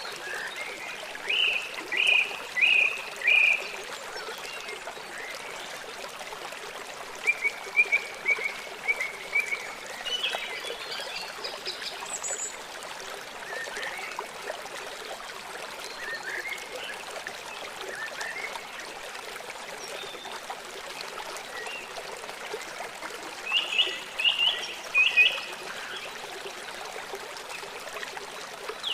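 Small songbirds giving short runs of repeated high chirps over the steady rush of running water. The chirp runs come near the start, around a third of the way in, and again near the end, with scattered single calls between.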